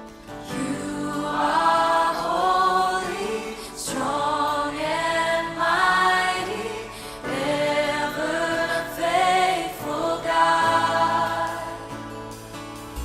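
Christian worship song: sung vocal phrases over sustained low chords, ending in a brief lull near the end.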